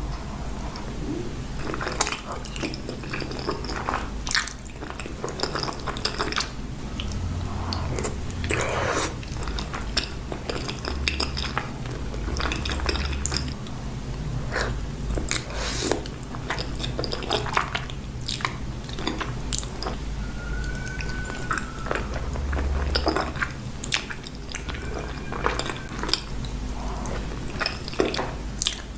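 A person chewing creamy pasta close to the microphone, with irregular mouth clicks and smacks over a steady low hum.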